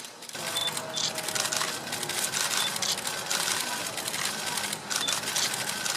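Pleci (white-eye) birds chittering rapidly and harshly, with a few short thin high whistles, typical of adults feeding chicks in the nest.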